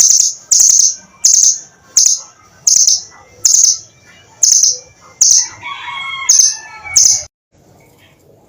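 A bird giving a series of about ten loud, sharp, high-pitched calls, evenly spaced less than a second apart. A more varied, warbling phrase comes in near the end, then the sound cuts off abruptly.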